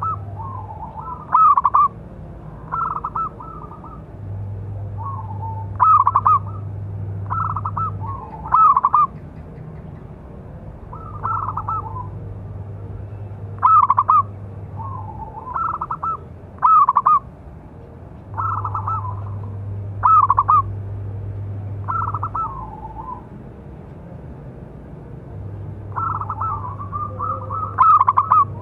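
Zebra dove (perkutut) cooing: short phrases of a few clear, bubbling coo notes, repeated every two to three seconds.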